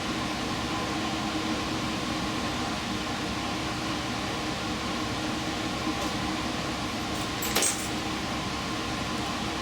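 Steady mechanical hum of a diesel limited express train heard from inside the front car, with a short sharp click about three-quarters of the way through.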